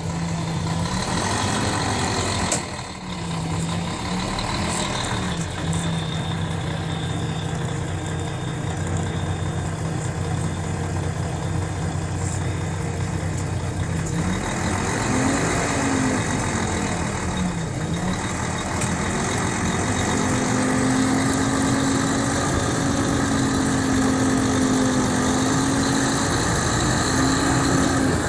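Mercedes-Benz O500RSD coach's diesel engine running, its revs rising and falling briefly several times, then held at a higher steady speed for the last several seconds.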